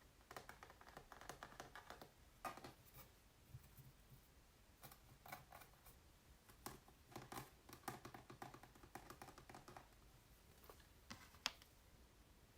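Fingers tapping and tracing on an acrylic painting on canvas: quiet, irregular clusters of light taps and soft scratches, with one sharper tap near the end.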